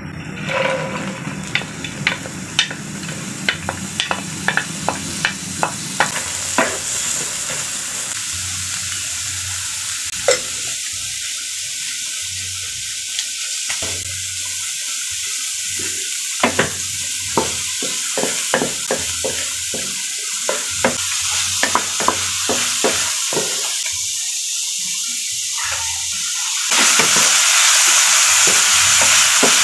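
Chopped kangkong (water spinach) stems sizzling in butter in a nonstick frying pan as they are stir-fried, with a wooden spatula clicking and scraping against the pan. The sizzle grows louder near the end.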